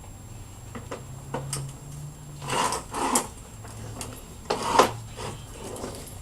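Hummingbird wings humming at a feeder, a low buzz that wavers in pitch, broken by two louder rushing bursts about two and a half seconds in and near five seconds.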